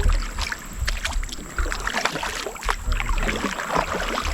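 Water splashing and sloshing around a kayak on a river, with many small knocks and clicks, over a low rumble.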